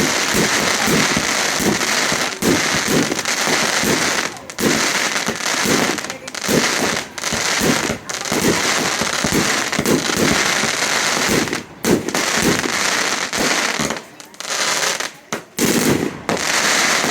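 Fireworks display: dense, near-continuous crackling and bursts of aerial fireworks. There are brief dips in the barrage and a short lull about two-thirds of the way through before it picks up again.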